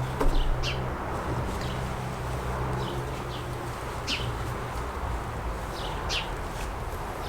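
A songbird calling in short, high chirps repeated about every two seconds, over a steady low hum.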